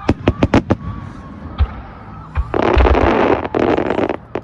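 Aerial fireworks bursting: five sharp bangs in quick succession, a low boom, then about two seconds of dense crackling, and one more sharp bang near the end.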